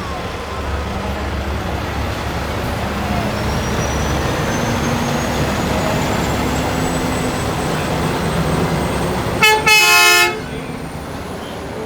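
Semi-truck diesel engines rumbling steadily, then about three-quarters of the way through a truck horn sounds: a short toot followed by a loud blast of under a second.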